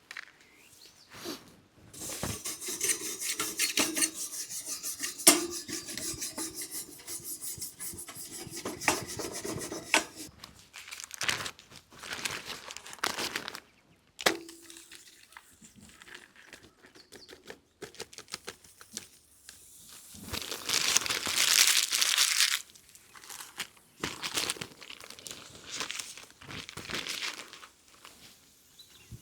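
Crinkling and rustling with scraping and many light clicks and knocks, as of things being handled, in irregular spells with a loud stretch around the middle and another near the end.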